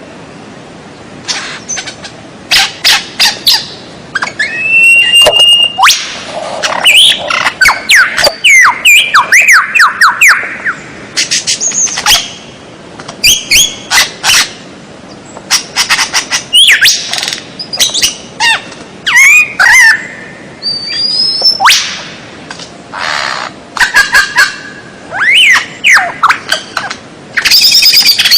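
Songbird song, loud and varied: sliding whistles, fast rattling trills and sharp chips in bursts of a second or two, with short pauses between phrases.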